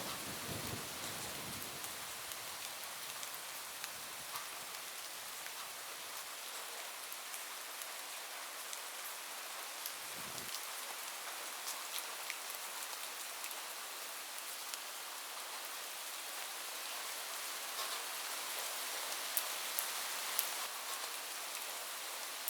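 Steady rain falling on a roof, an even hiss with scattered drop ticks. The low rumble of thunder dies away over the first couple of seconds.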